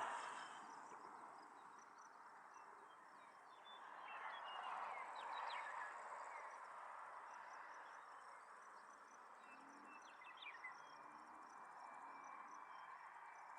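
Faint open-air ambience: insects chirping in a steady high rhythm, with short bird calls about five seconds in and again about ten seconds in, over a faint wash of distant noise that fades over the first second or two.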